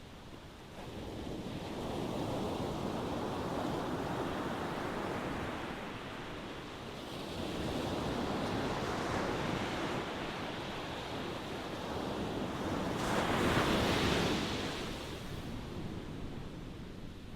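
Ocean waves washing in and out: three swells of surf rise and fade, the loudest one near the end.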